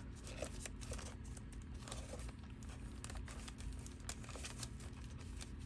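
Paper tags and cut-out pieces rustling and crinkling as they are handled and flipped through, with many small taps and ticks scattered throughout.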